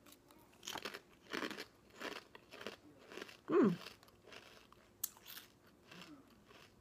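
Crunching as a person bites into and chews a Lay's Kettle Cooked potato chip, a thick, hard kettle chip, in short crunches about every half second to second. A little past halfway comes one louder sound that falls in pitch.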